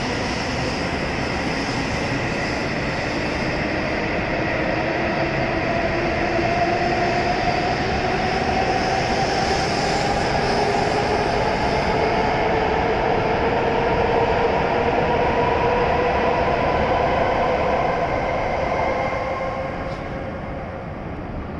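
W7 series Shinkansen train pulling out and picking up speed, its traction motors whining in a steady upward glide over the rumble of the wheels. The sound falls away near the end as the last car passes.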